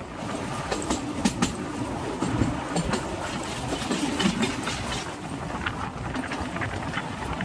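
Kalka–Shimla rail motor car running along the narrow-gauge line: a steady running rumble with repeated clicks and knocks from the wheels over the track.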